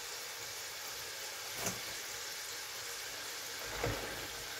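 Green plantain slices and chips sizzling steadily in hot oil in a saucepan on their first fry, with two light knocks, about one and a half and four seconds in, as a wire skimmer moves them.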